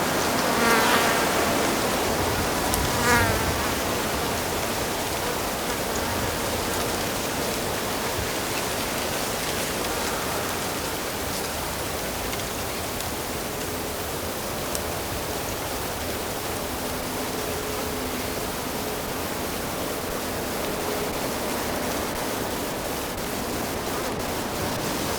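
Steady rushing of a flowing stream. Two short pitched calls stand out above it about one and three seconds in.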